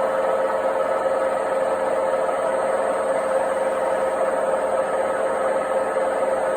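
Washing machine drum turning on failed drum bearings, making a steady, loud running noise with a constant hum: the noise of worn-out bearings.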